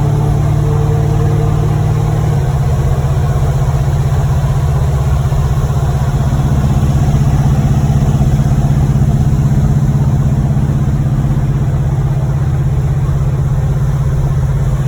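1986 Chevrolet Monte Carlo SS's V8 running steadily while the car is driven, its note shifting slightly about two and a half seconds in. The engine has a bottom-end rod knock.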